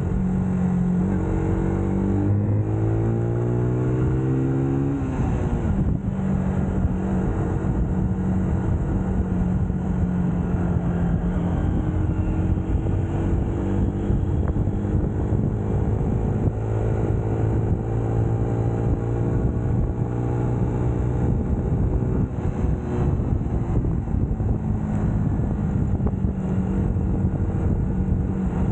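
UM Scrambler X motorcycle engine pulling under way, revs climbing for the first few seconds, then dropping at a gear change about five seconds in, and rising gently again partway through, with steady wind noise on the microphone.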